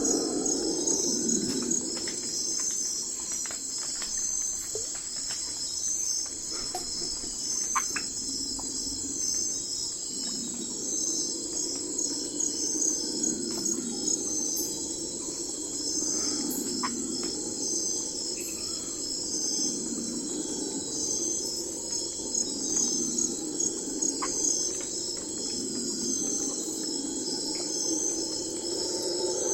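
Night crickets chirping steadily in a high, evenly pulsing trill, over a lower wavering drone, with a few faint clicks scattered through.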